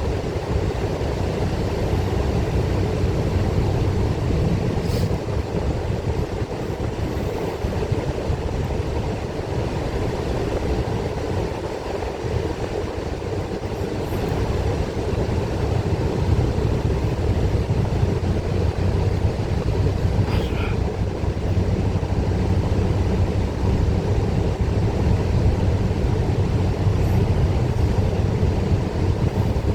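Bus engine and road noise heard from inside the passenger cabin: a steady low drone with a few faint clicks or rattles along the way.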